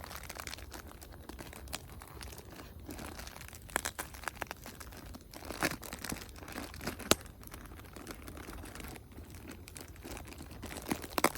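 Bonfire crackling: irregular sharp pops and snaps of burning wood over a low hiss, with the loudest snap about seven seconds in and a quick run of snaps near the end.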